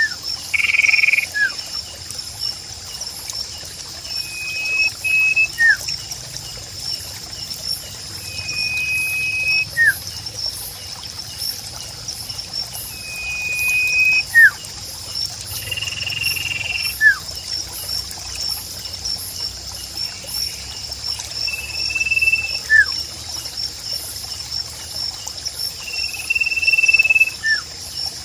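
Sirpu bird singing: a repeated phrase every four or five seconds, a short level whistle followed by a quick downward-sliding note. A steady high-pitched insect chirr and the even hiss of trickling water run underneath.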